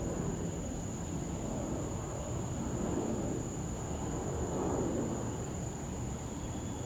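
Steady low rumble of distant jet aircraft at an airport, with soft swells every couple of seconds and a thin steady high-pitched tone over it.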